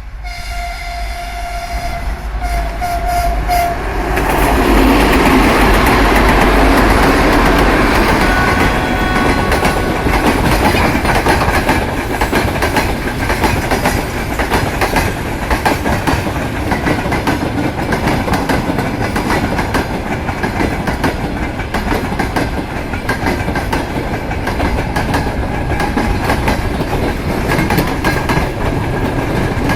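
3TE10MK three-section diesel locomotive with 5D49 engines passing with a long freight train. A horn sounds in short pieces for the first few seconds, the engine noise peaks about five to eight seconds in, then the wagons roll by with a steady clickety-clack of wheels over rail joints.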